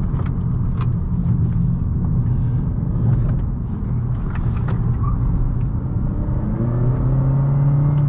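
Honda Accord 1.5T's turbocharged four-cylinder engine pulling along a winding road, with steady tyre and road noise and a few short clicks. The engine note rises near the end as the car accelerates.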